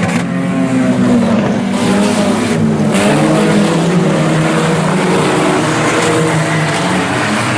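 A field of front-wheel-drive IMCA Sport Compact race cars running hard around the oval, several engines overlapping, their pitch rising and falling with the throttle.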